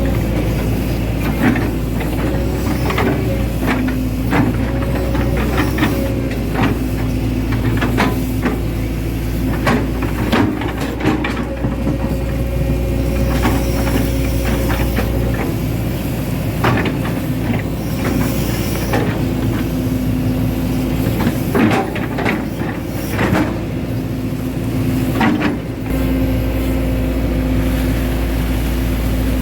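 Hitachi Zaxis 110 hydraulic excavator's diesel engine running under working load. A higher tone comes and goes as it works, and repeated metallic clanks and knocks are scattered throughout.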